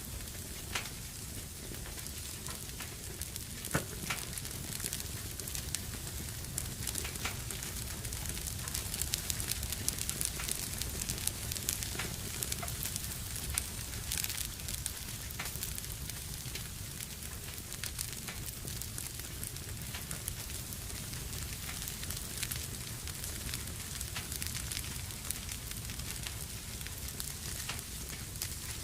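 Wood fire burning in a fireplace: steady crackling with frequent sharp pops and a low rumble of the flames underneath.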